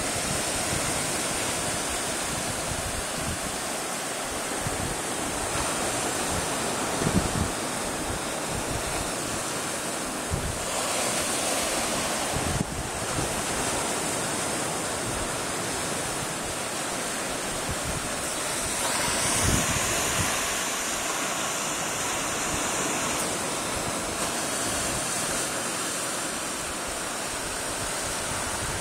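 Ocean waves crashing on the shore: a continuous wash of surf that swells louder twice, with wind buffeting the microphone now and then.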